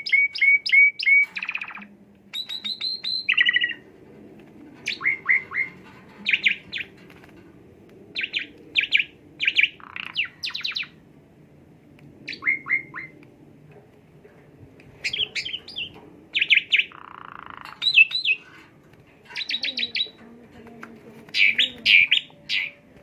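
Javan pied starling (jalak suren) singing: repeated short bursts of quick, rapid-fire chirps and whistled notes, phrases about a second apart with brief pauses between them.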